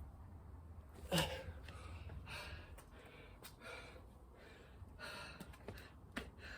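A person breathing hard, with several gasping breaths, the loudest about a second in: out of breath from strenuous exercise.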